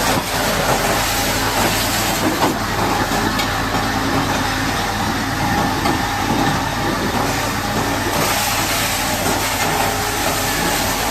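High-pressure water jet hissing as it washes mud off a Caterpillar D8T bulldozer, over a steady engine running. The hiss eases from about two seconds in and comes back about eight seconds in.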